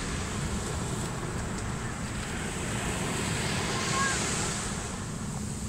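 Ocean surf washing steadily, with wind buffeting the microphone. A couple of faint short high calls come through about four seconds in.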